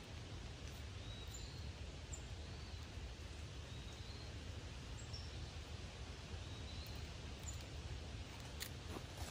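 Faint woodland ambience: a bird repeats a short high chirp about once a second over a steady low rumble, with a few soft clicks near the end.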